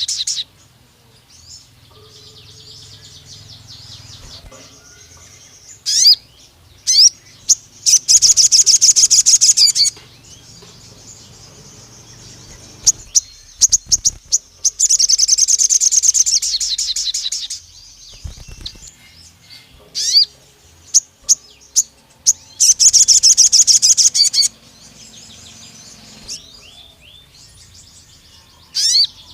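Sogon songbird singing loudly: three long rapid trills of about two seconds each, the song the title calls 'nembak panjang', with short sharp high chirps scattered between them.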